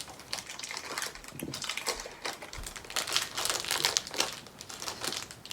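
Crinkling of a chocolate bar's wrapper being handled and opened, in irregular crackling bursts.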